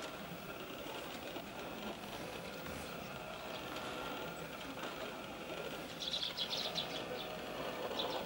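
Small birds chirping in a quick run of short high calls about six seconds in, over a steady background hum.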